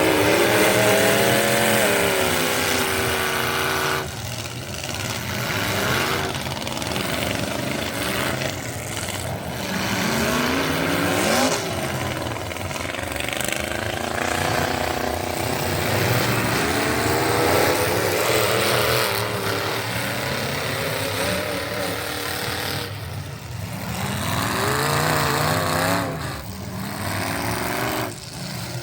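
Competition pulling truck's engine running under load, its pitch climbing and falling repeatedly, with several sudden cuts.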